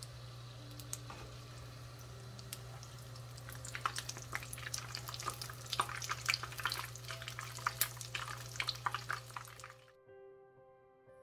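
Breaded crab meat rice paper rolls shallow-frying in canola oil in a non-stick pan: a steady sizzle full of sharp pops and crackles over a low hum, growing busier and louder about four seconds in. The frying cuts off suddenly near the end, leaving soft plucked-guitar background music that runs faintly underneath throughout.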